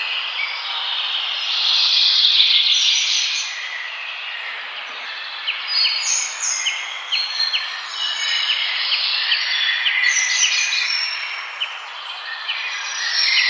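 Several forest birds singing and calling at once, overlapping songs and chirps over a steady background hiss. From about five seconds in, one bird repeats a short sharp chip note roughly twice a second for several seconds.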